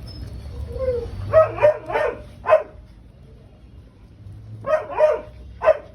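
A dog barking: a quick run of four barks, then three more about two seconds later.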